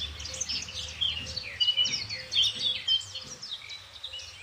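Several birds chirping and twittering in quick, overlapping calls, with a faint low steady hum underneath.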